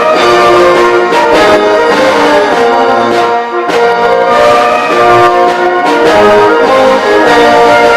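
Youth wind band playing, brass to the fore with trombones and trumpets, in sustained full chords, with a brief break in the sound about three and a half seconds in.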